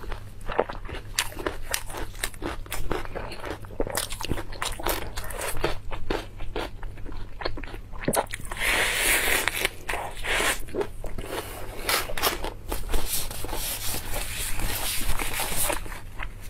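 Close-miked eating: crisp bites and crunchy chewing of fresh leafy greens, many sharp crackles, with a denser burst of crunching about eight seconds in.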